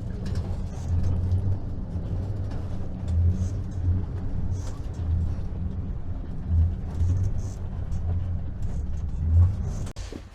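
Motor vehicle running on a rough road, heard from inside: a steady low engine and road drone that swells in repeated surges, then falls away near the end as the vehicle stops.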